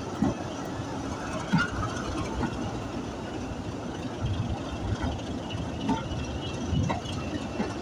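Diesel-hauled train running slowly: the locomotive's engine drones under the rolling noise, and the wheels knock over rail joints roughly once a second.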